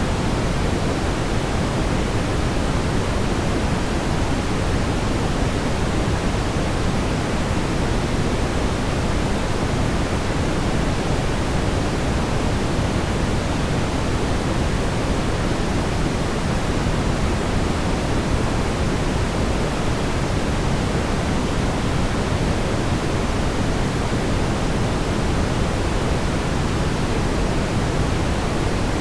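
Steady brown noise: an even, unchanging rumbling hiss, heaviest in the low end.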